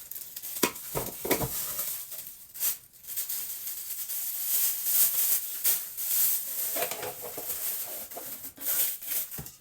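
Thin plastic bags rustling and crinkling as they are handled, with a few knocks, while soup is packed into them.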